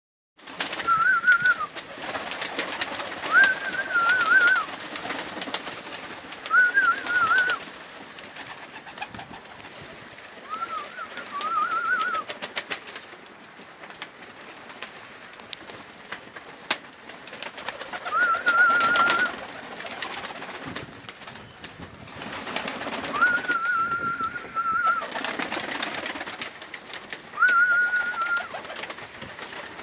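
A bird calling repeatedly, about eight short wavering calls of roughly a second each, spaced a few seconds apart.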